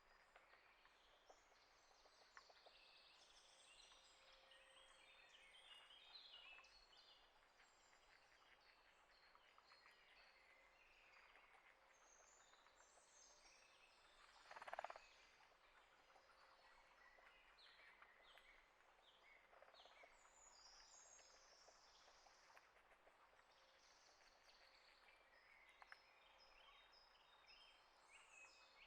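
Faint chorus of small wild birds chirping and twittering, with many short high notes scattered throughout. About halfway through comes one louder, brief sound.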